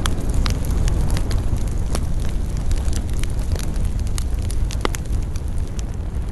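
Campfire burning, with frequent crackles and pops over a steady low rumble; one sharp pop stands out about five seconds in.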